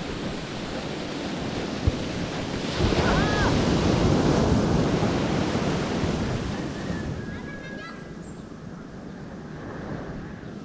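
Sea waves washing and wind buffeting the microphone, swelling louder for a few seconds in the middle, with a single sharp knock about two seconds in.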